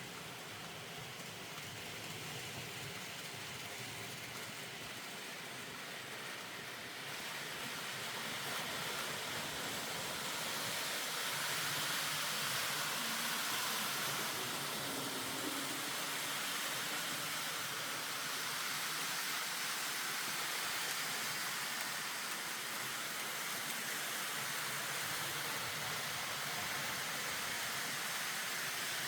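N gauge model train running along code 55 track: a steady mechanical running noise of wheels on rail and motor, getting louder from about seven seconds in.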